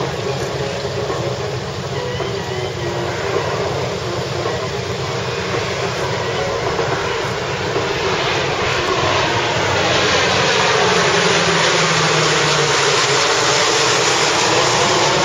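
Lockheed C-130 Hercules four-engine turboprop droning on a low pass, growing steadily louder as it approaches and loudest near the end.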